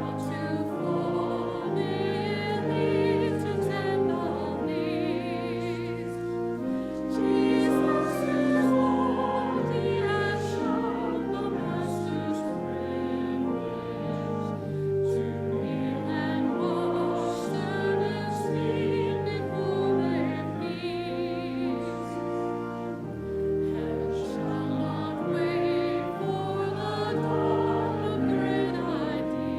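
Voices singing a slow hymn with vibrato over sustained low accompaniment.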